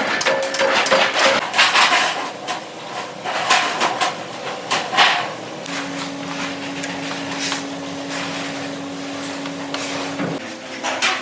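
Workshop noise: a rapid run of knocks and clatter, then a steady hum from a running machine starting about halfway through and stopping shortly before the end.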